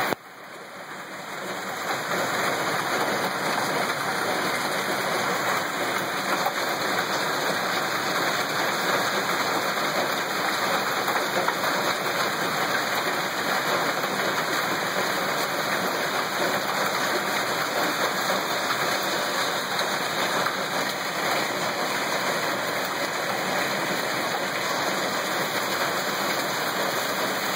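Small hail and heavy rain pelting down, a dense, steady rattle of countless tiny hits like a popcorn popper. The sound drops away at the very start and builds back up over about two seconds.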